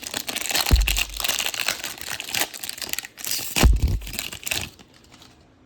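Plastic wrapper of a Select basketball trading-card pack crinkling as it is torn open and handled, with two dull thumps, about a second in and near four seconds in. The crinkling stops about five seconds in.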